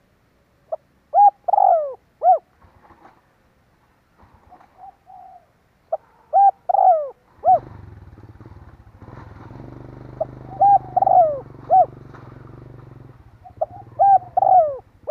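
Spotted dove cooing: four phrases of short arched coos, repeated about every four seconds. A low steady hum runs underneath through the middle of the stretch.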